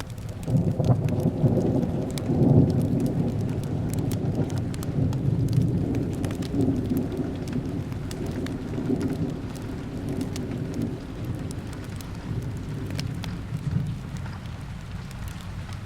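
A long roll of thunder starts about half a second in, is loudest a couple of seconds later and fades slowly, over steady rain. Scattered small crackles run through it.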